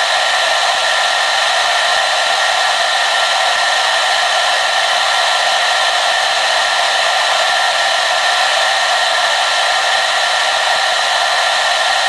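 Hair dryer running steadily: an even rush of blown air with a faint steady whine, unchanging throughout.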